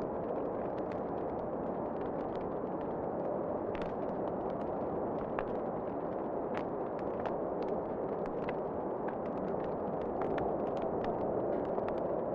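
Wood fire crackling in a fireplace, with scattered sharp pops and snaps over a steady rushing of wind.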